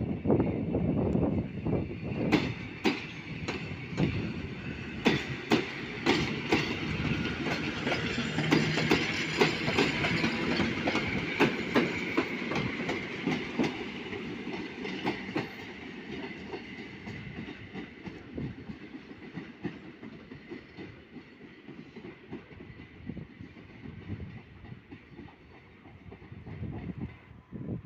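EN57-type electric multiple unit passing through, its wheels clicking over the rail joints in quick succession over a steady rumble. It fades away in the second half as the train moves off.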